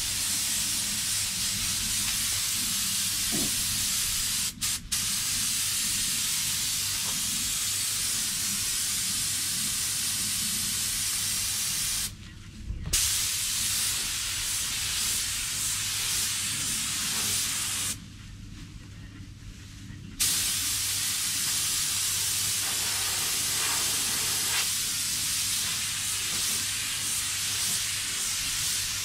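Compressed air hissing steadily from an automotive paint spray gun in long trigger-held passes, cut off briefly about four and a half seconds in, again around twelve seconds in, and for about two seconds around eighteen seconds in. A low steady hum runs underneath.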